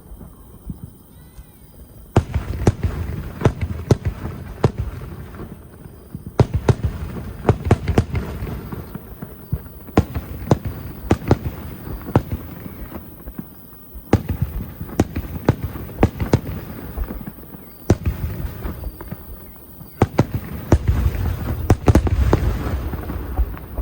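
Fireworks bursting in repeated volleys of sharp bangs and crackling over a low rumble. A new volley starts about every four seconds, and each lasts a few seconds.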